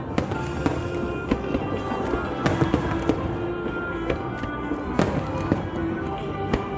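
Aerial fireworks bursting in an irregular series of sharp bangs, about one or two a second, with music playing underneath.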